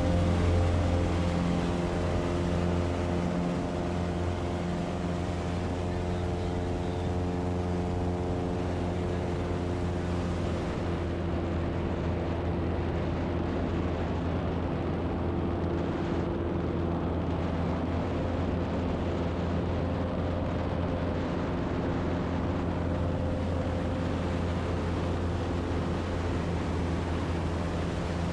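Light aircraft piston engine and propeller running steadily at power, with a slight shift in tone about ten seconds in.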